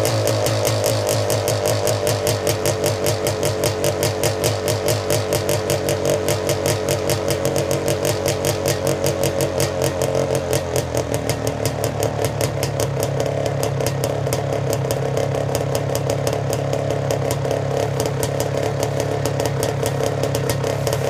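Suzuki LT250R's two-stroke single-cylinder engine running just after a cold start, pulsing unevenly at first and settling into a steadier run about halfway through. It sounds a little lean, as it typically does on its first cold start in winter.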